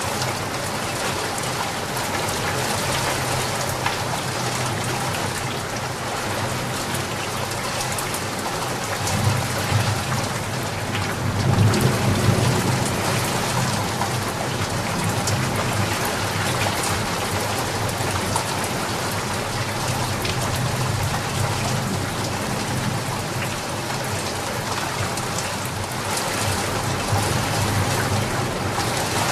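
Steady heavy rain falling, with a low rumble of distant thunder that swells about ten seconds in and fades a few seconds later.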